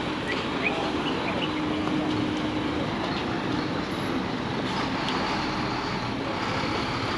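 Steady street traffic noise with an engine hum coming and going in it.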